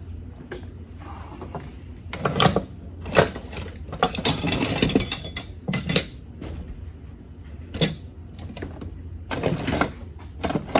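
Metal hand tools clinking and clattering in irregular bursts as they are rummaged through in a search for a socket, with a dense run of clattering about four seconds in.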